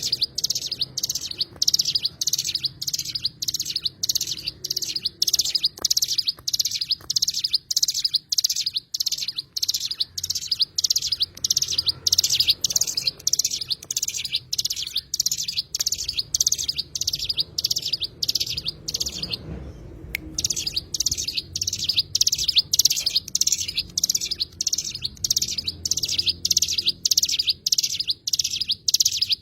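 A cigun bird calling a rapid, even string of short, high-pitched notes, about three a second, with a brief pause around twenty seconds in.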